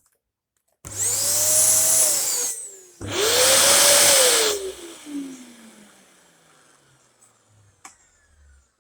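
Dyson upright vacuum cleaner switched on twice in quick succession, each time for about a second and a half: the motor whine rises as it spins up, and after the second switch-off it winds down in a long falling whine.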